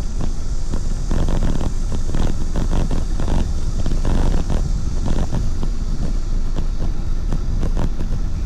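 Wind buffeting the microphone of a rider's camera while cycling, a steady low rumble with irregular gusts, mixed with road noise.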